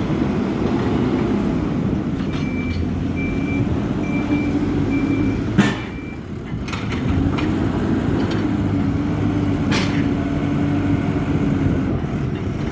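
Hidromek 102B backhoe loader's diesel engine running steadily, with its reversing alarm beeping about five times from two seconds in. A sharp knock comes at about six seconds, the engine drops away briefly and then picks up again, and another sharp knock comes near ten seconds.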